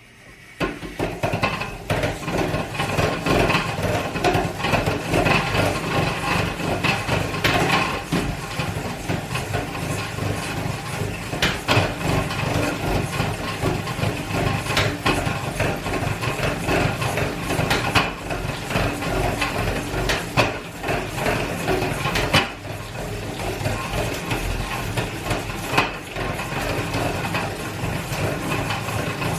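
ThinkRider X7 smart bike trainer running with an abnormal mechanical noise: a continuous grinding rumble broken by sharp knocks every few seconds.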